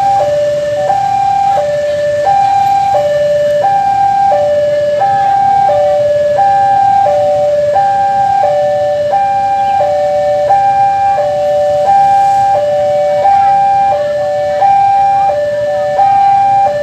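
Railway level-crossing warning signal sounding a steady two-tone electronic alarm, a higher and a lower tone alternating about once a second. It is the warning that a train or locomotive is about to cross.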